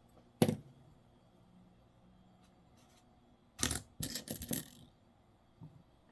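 Quarters clinking as they are handled and set down: one sharp clink about half a second in, then a quick run of clinks and clatter around four seconds in.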